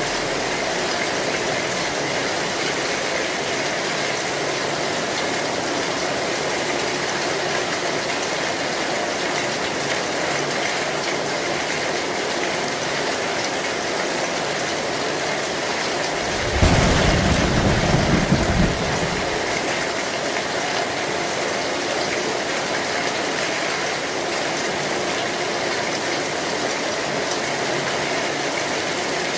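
Heavy rain falling steadily on an old zinc metal roof. A little past halfway a thunderclap breaks in and rumbles for about two and a half seconds, the loudest sound in the stretch.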